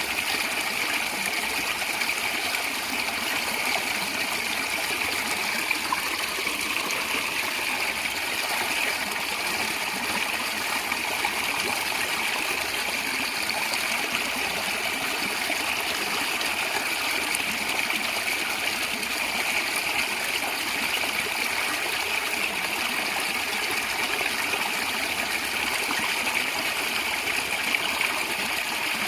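A small stream of water flowing and gurgling steadily, an even hiss of running water with no change.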